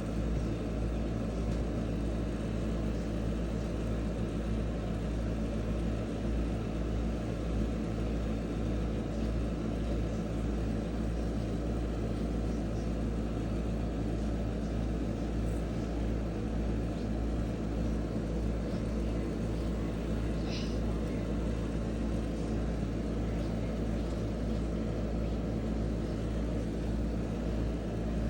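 Steady white noise with a low hum and rumble underneath, unchanging throughout.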